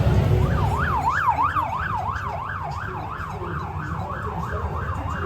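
Emergency vehicle siren sounding a fast yelp, its pitch sweeping up and down about three times a second, starting about half a second in.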